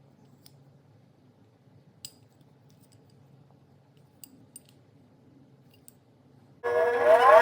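A few faint, sharp clicks over quiet room tone, then music starts loudly near the end with rising, sweeping tones.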